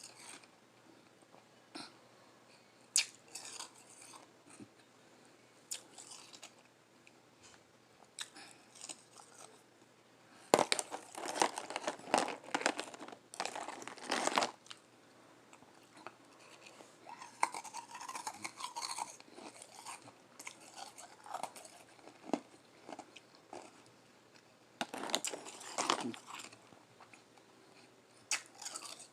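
Close-up chewing and soft crunching of frozen ice, bites coming in scattered clusters, with the busiest run about ten seconds in and another near the end.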